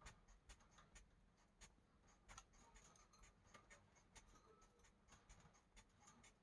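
Faint scratching of a marker tip on a colouring-book page: short, irregular strokes, about three a second.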